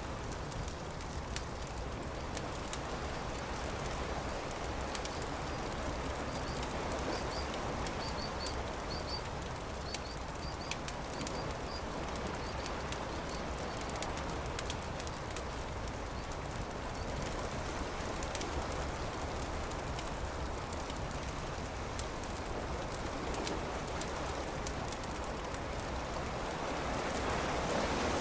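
Campfire crackling with frequent sharp pops, over a steady rushing wash of surf that swells near the end. A few short high bird chirps come in about a third of the way through.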